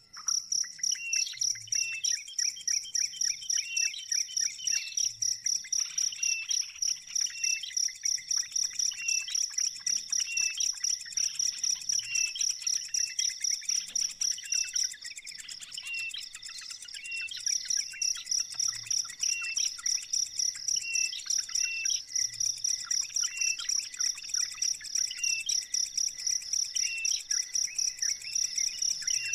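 An insect trilling in rapid, even pulses at a high pitch, with short bird chirps repeating about once a second underneath. The trilling stops for a couple of seconds midway.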